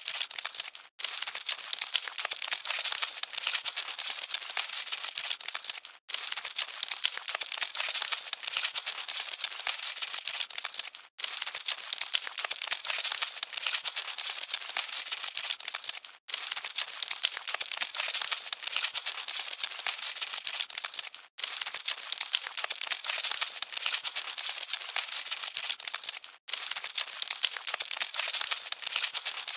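Cockroaches scuttling: a dense, fine crackling and rustling. The recording is a loop that repeats about every five seconds, each repeat separated by a brief dropout.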